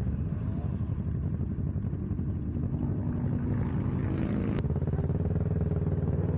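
Kawasaki Ninja 650's parallel-twin engine running steadily under way, its pitch shifting slightly. A single sharp click sounds about four and a half seconds in.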